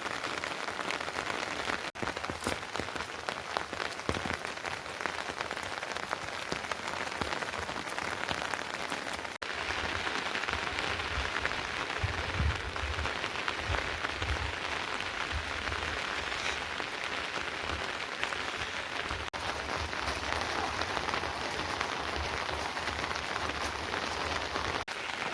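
Steady rain falling, a dense patter of drops on surfaces, with a few low bumps about halfway through.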